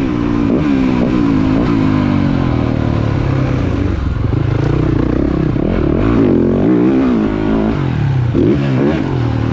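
Motocross bike engine running hard, its pitch climbing and dropping repeatedly as the throttle opens and closes.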